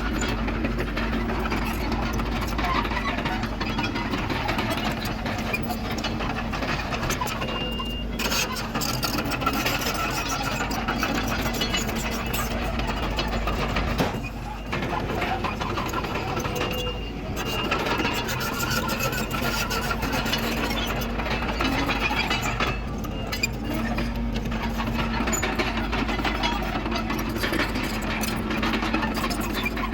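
Komatsu D31PX crawler dozer's diesel engine running steadily with a constant hum and a broad machinery clatter, easing off briefly a few times.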